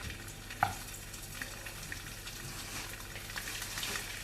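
Chicken pieces frying in a pan of shallow oil, a steady sizzle with scattered small crackles and one sharper knock about half a second in.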